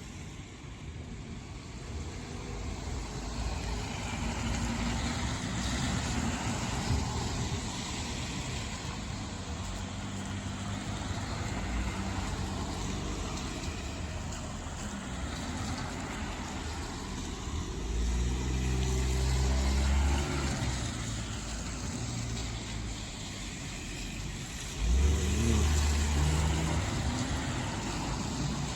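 Izuhakone Railway 5000-series electric train approaching and running into a station. Its noise builds over the first few seconds, and low hums come and go in the second half, with a sudden loud one near the end.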